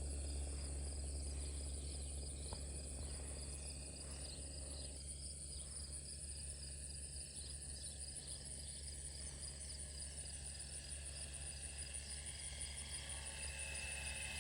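RC model airplane's motor and propeller whining in flight, drifting in pitch, fading as it flies away and growing louder again near the end. Insects chirping steadily underneath.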